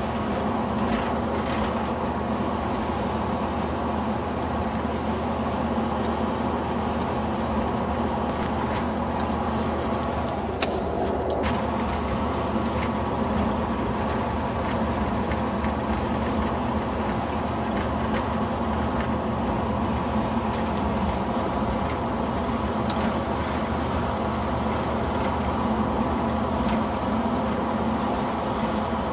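Steady engine and road noise from a moving vehicle, holding an even level throughout.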